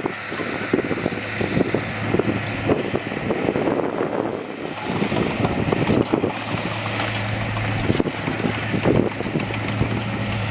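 Diesel engine of heavy earthmoving machinery running with a steady hum, with irregular knocks and rumbles over it.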